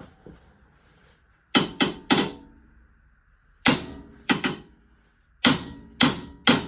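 Hammer blows on a stuck part of the car, trying to knock it loose: about nine sharp strikes in uneven clusters of two or three, each ringing briefly.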